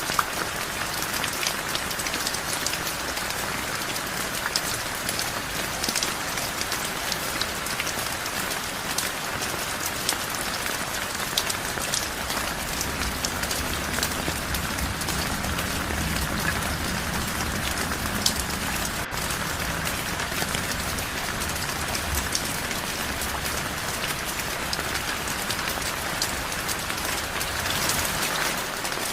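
Heavy rain falling steadily, with a dense patter of individual drops striking nearby surfaces. A faint low rumble sits under it for several seconds in the middle.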